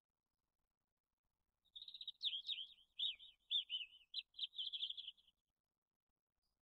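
A songbird singing one phrase of rapid, varied chirping notes lasting about three and a half seconds, starting a little under two seconds in.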